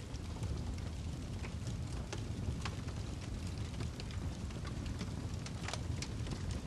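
Wood fire crackling in a fireplace: irregular sharp crackles and pops, several a second, over a steady low rumble of the burning log.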